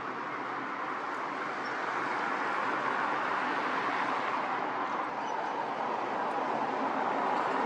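Steady outdoor rushing noise with no clear tones, slowly getting a little louder.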